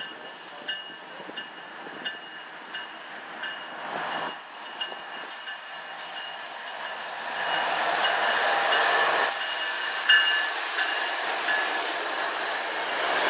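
Freight train of a diesel locomotive and loaded covered hopper cars rolling past close by, its wheels clicking over rail joints at a steady beat with thin metallic wheel ringing over steady rolling noise. It grows louder in the second half, with a high hiss for about two seconds near the end.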